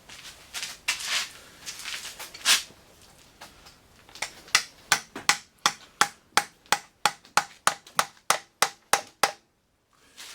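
Hand tool working on the engine's oil pan bolts: a few scattered metal clicks and scrapes, then a steady run of sharp metallic clicks, about four a second, each with a short ring, that stops abruptly near the end.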